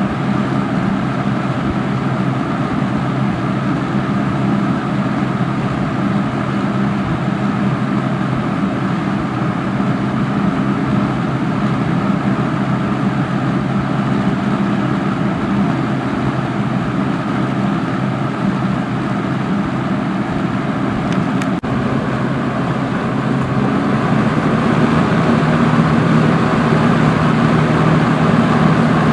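Vintage Lakewood-made Kmart K-223 box fan running steadily: a rush of air over a low motor hum. A single click comes about 21 seconds in, and the sound grows a little louder a couple of seconds later.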